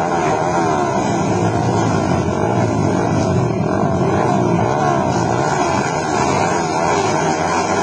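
Several speedway motorcycles' engines revving together at the start line, their pitches rising and falling continuously as the riders blip the throttles while waiting for the start.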